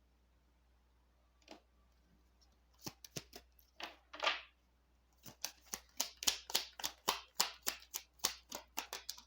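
Tarot cards being handled and shuffled: a few light taps and a brief slide of cards, then a run of quick card slaps and flicks, about four or five a second, through the second half.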